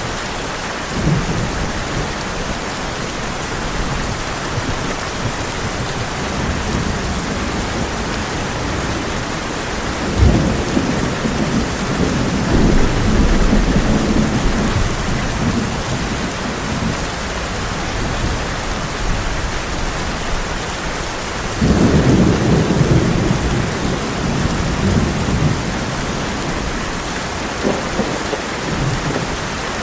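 Heavy rain falling steadily on a tin roof, with thunder: a sudden clap about ten seconds in that rolls on for several seconds, and another that starts about two thirds of the way through and rumbles for a few seconds.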